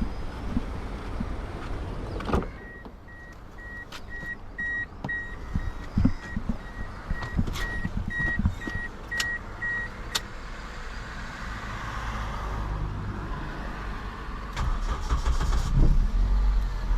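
A knock, then a 2004 Toyota Corolla's warning chime beeping at one pitch about twice a second for about seven seconds, with scattered clicks. A low rumble builds near the end.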